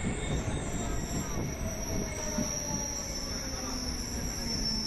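Train rolling along a station platform, heard from on board: steady wheel-on-rail rumble with a faint wheel squeal whose pitch slowly falls.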